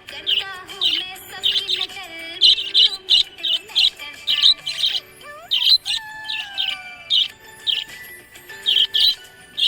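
Budgerigar chirping: short, sharp, high chirps about twice a second, with a brief pause about five seconds in.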